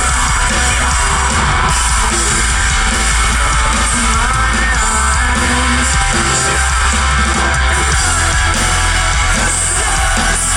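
Metalcore band playing live, loud and dense: distorted electric guitars, bass and drums with vocals over them.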